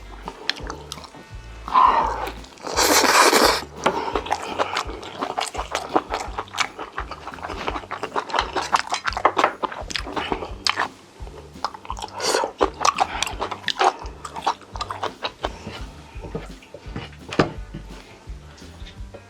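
Close-up eating sounds of Korean food: chewing, smacking and spoon clicks, with a louder slurp-like rush about three seconds in.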